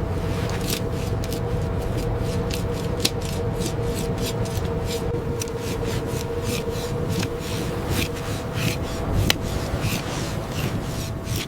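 A knife scraping and sawing through a tuna's back for the dorsal cut, in short repeated strokes, about three a second. A steady machinery hum runs underneath.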